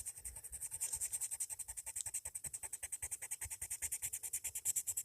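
Colored pencil shading on paper: rapid, even back-and-forth strokes scratching steadily.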